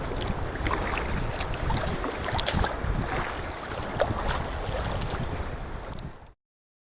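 Wind buffeting the microphone over water sloshing and splashing around a sea kayak, with scattered small splashes. The sound cuts off abruptly about six seconds in.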